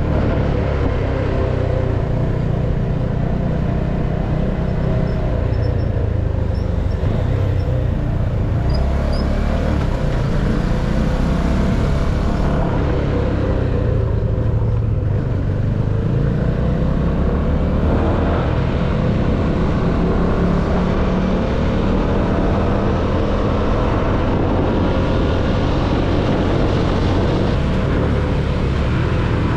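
CFMoto motorcycle engine running under way, its note rising and falling with the throttle, over a steady rumble of wind and road noise.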